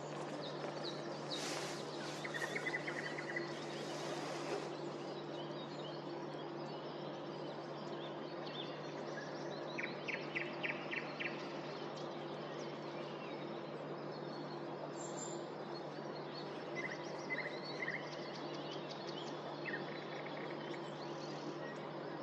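Songbirds singing and calling in short phrases, including a quick run of about six notes partway through, over a steady hum of distant town noise.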